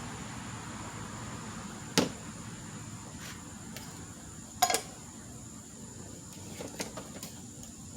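Hard objects being handled while filler is mixed: one sharp knock about two seconds in, a quick rattle of clicks a little past halfway, and a few lighter clicks later, over a faint hiss.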